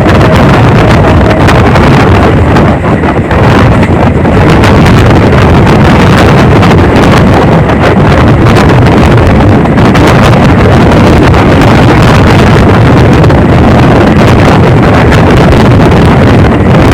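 Wind rushing over the microphone from a moving passenger train, with the train's running rumble underneath. Loud and steady throughout.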